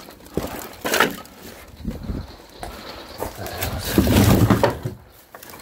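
Split firewood being handled and stacked: several knocks of wood on wood, then a longer, louder thud of wood being set down about four seconds in.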